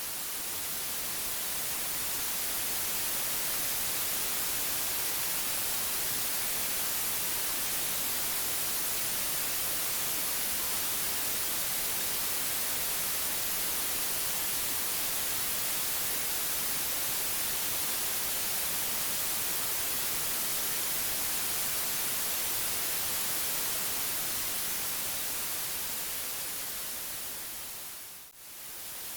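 Steady white noise: an even hiss, brightest in the high end, that dips briefly and swells back about a second before the end, where the loop restarts.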